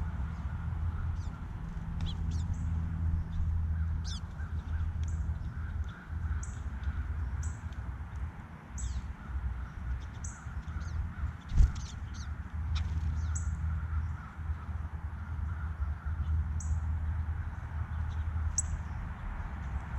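Small birds at a feeder giving short, high chirps about once a second over a steady low rumble, with one sharp knock a little past halfway.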